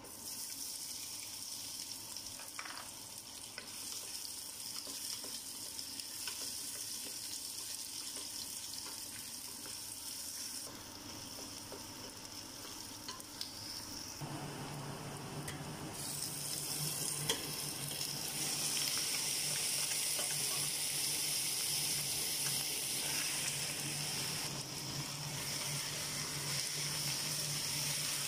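Sliced onions and then raw chicken pieces sizzling in hot oil in a stainless steel pot, stirred with a wooden spoon. The sizzling gets louder in the second half, and a steady low hum joins about halfway.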